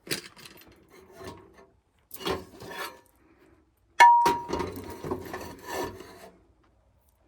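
Camp cooking gear being handled: rustling and scraping in three short spells, with one sharp clink that rings briefly about four seconds in.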